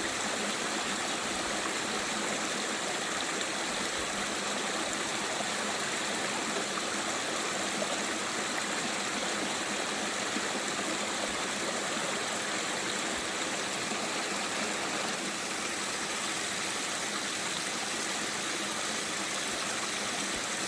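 Spring water running down over rocks in a mountain stream: a steady, even rushing and splashing.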